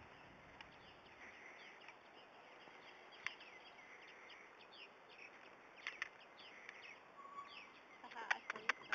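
Faint birdsong of many short, quick chirps over a low outdoor hiss, with a few sharp clicks near the end.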